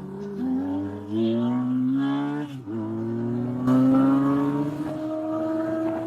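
Police motorcycle engine accelerating hard in pursuit. Its pitch climbs and breaks a few times as it shifts through the gears, then holds steady at speed.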